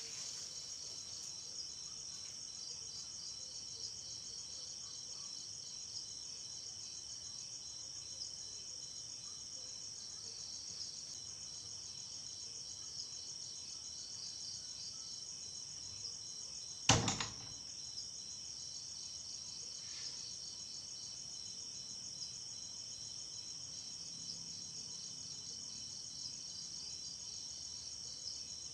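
Night chorus of crickets, a steady high pulsing trill. About seventeen seconds in, one sudden loud whoosh sweeps down in pitch and is gone within a second.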